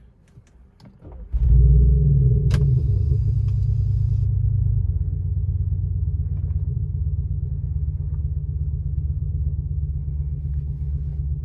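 Audi A5 Cabriolet with a JSR aftermarket exhaust and active sound system starting up, heard from inside the cabin. After a few faint clicks, the engine catches a little over a second in with a loud, low flare. After about three seconds it settles into a steady, deep idle rumble.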